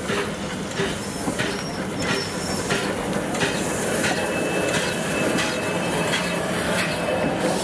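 A heritage railway train rolling along the track. Its wheels click over the rail joints at irregular intervals, and the wheel flanges give a thin high squeal near the start and again from about halfway through.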